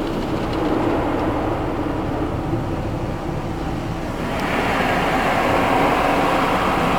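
Water spraying onto a car in a car wash: a steady rushing noise that gets louder and brighter about four seconds in.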